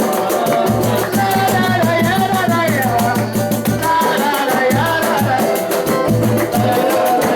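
Live samba music: a shaker keeps a quick, even beat over bass notes, with a melody line that bends in pitch.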